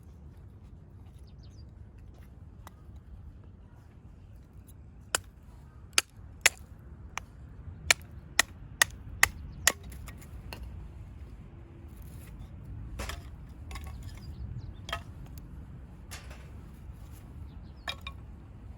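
Firewood being split by hand: a run of about eight sharp wooden knocks in quick succession, then softer scraping and a few more knocks.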